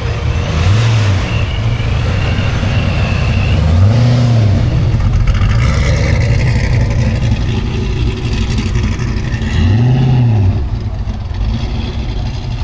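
Car engine fitted with a centrifugal supercharger, idling and blipped three times: about a second in, about four seconds in and about ten seconds in, with a high supercharger whine after the first blip.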